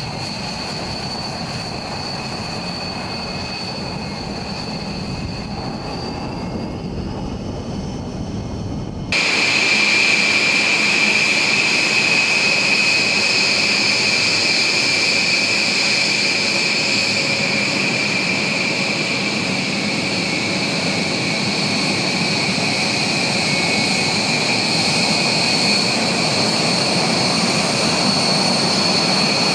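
Jet engines of a B-1 Lancer bomber running with a steady roar and a high whine. About nine seconds in the sound cuts abruptly to a louder, brighter stretch of the same engine noise.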